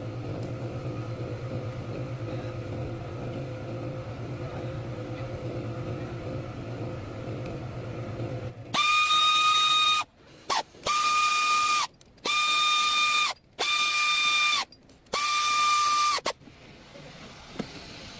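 A low, steady running hum, then five loud, high-pitched hooter blasts, each about a second long and held at one pitch with a hissy edge.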